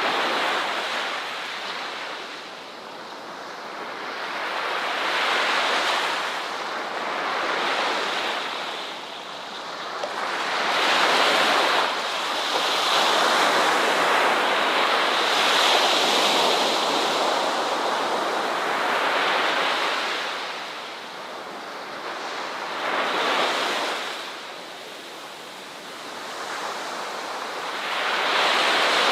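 Ocean waves breaking and washing up the shore, a steady rush of surf that swells and falls back every few seconds, with a longer sustained surge through the middle.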